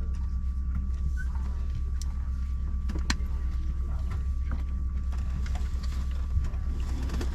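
Steady low hum of an Embraer 190-E2 airliner's cabin on the ground, its air-conditioning and aircraft systems running, with a faint steady high tone over it. Scattered small clicks and knocks, the sharpest about two and three seconds in.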